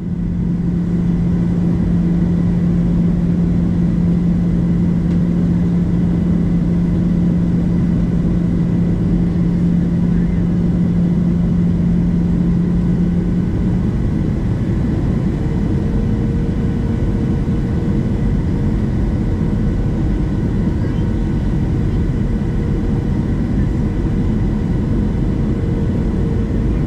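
Steady jet airliner cabin noise aboard a Boeing 737-700: a constant rumble of engines and airflow with a low steady hum that stops about halfway, and a higher steady hum that comes in a little later.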